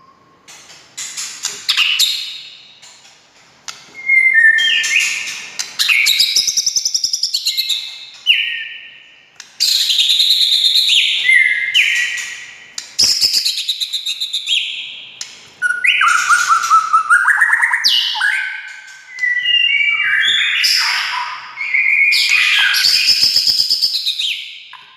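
White-rumped shama (murai batu) singing a loud, varied song. Phrase follows phrase, each a second or two long, mixing clear whistles that slide in pitch with fast rattling trills.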